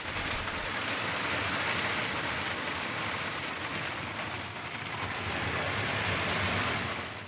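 Heavy storm rain pouring down as a steady, even hiss. It fades in at the start and cuts off abruptly at the end.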